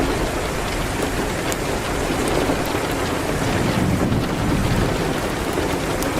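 Steady rain on a window with a fireplace crackling in scattered sharp ticks. A low rumble swells a little past the middle.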